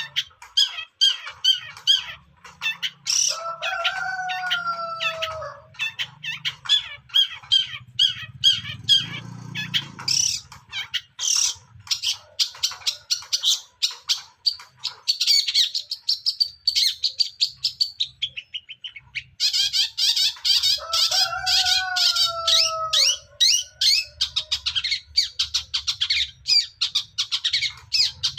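Young long-tailed shrike (cendet) singing continuously in a rapid, chattering stream of short high notes, twice broken by a lower drawn-out falling note.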